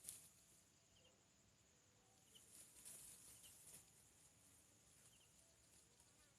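Near silence: faint outdoor ambience with a few short, high bird chirps and soft rustling just after the start and again around the middle.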